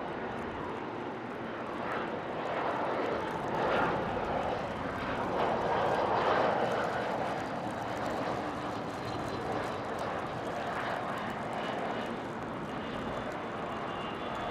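Cessna Citation Latitude business jet going by on landing, its turbofan noise swelling to a peak about five to six seconds in, then easing off, with a faint high whine near the end.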